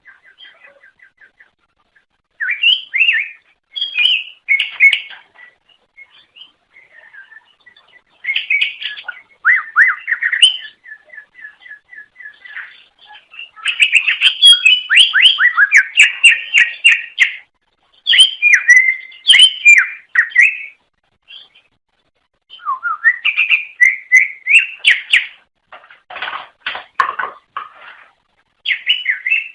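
Cucak ijo (green leafbird) singing: loud, varied phrases of quick whistled and chattering notes, broken by short pauses. Twice it breaks into a fast run of repeated short notes.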